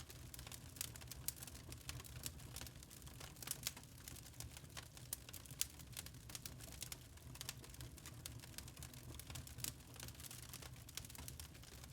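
Wood fire crackling: irregular sharp pops and snaps of burning logs, over a soft low rumble of the flames.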